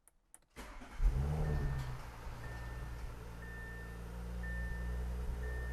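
Audi B9 S5's 3.0T turbocharged V6 cranked and started: it catches about a second in with a brief rise in revs, then settles to a steady idle. A short chime beeps about once a second over the idle.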